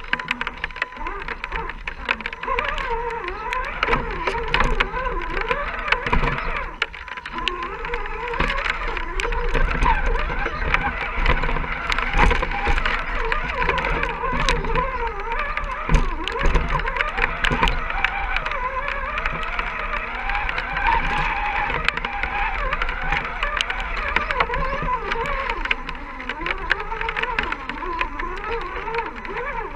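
Electric motor and gear drivetrain of an Axial SCX10 II scale RC rock crawler whining, the pitch rising and falling as the throttle is worked, with scattered clicks and knocks.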